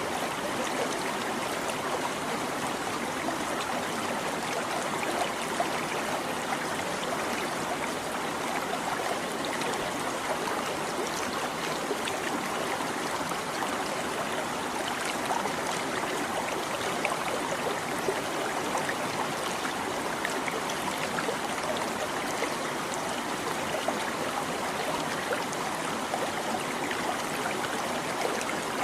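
A shallow stream babbling and trickling over stones, a steady rush of water with small splashes flickering through it.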